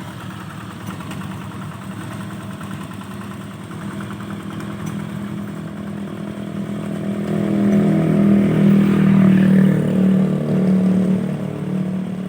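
Engine of a walk-behind paddy-field tractor running steadily, growing louder from about seven seconds in and easing off slightly near the end.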